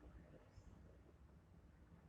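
Near silence with a faint, short, high chirp from a small bird about half a second in, one of a series repeating every second and a half or so.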